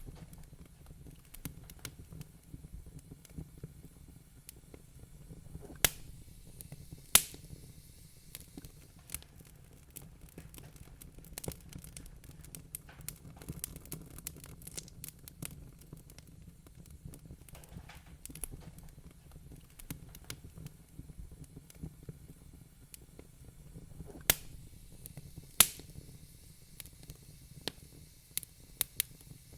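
Wood-burning fire crackling: a steady run of small ticks and snaps over a low rumble of the flames. Four sharper, louder pops stand out, two a little over a second apart about six seconds in and two more near the end.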